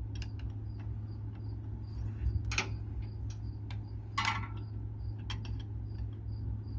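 Scattered metallic clicks and clinks of a hand wrench working a fastener under a truck, the two loudest about two and a half and four seconds in, over a steady low hum and a faint high tick repeating about twice a second.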